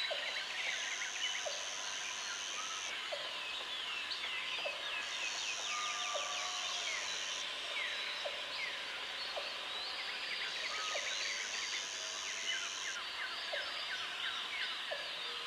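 Jungle dawn chorus: many birds chirping and whistling over one another, with a high, steady insect buzz that comes in for about two seconds at a time, three times. A short low call repeats every second or so underneath.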